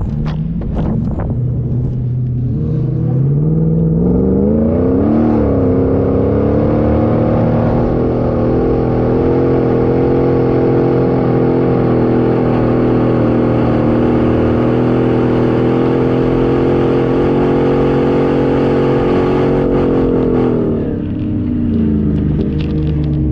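A 4x4's engine revving up and held at high revs under load for about fifteen seconds, with a brief dip and climb in pitch early on, then dropping back near the end.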